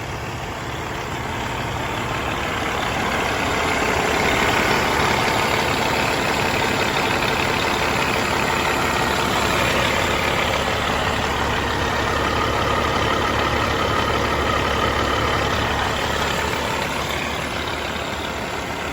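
Caterpillar C15 diesel truck engine idling steadily. It gets louder over the first few seconds and eases a little near the end.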